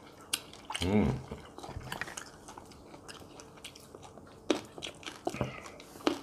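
People chewing and biting into food at a meal, with a few small sharp clicks and crunches in the second half. A brief voiced sound comes about a second in.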